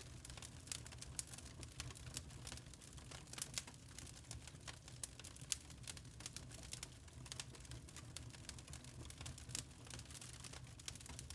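Burning charcoal crackling and popping: many small, irregular snaps over a low, steady rumble.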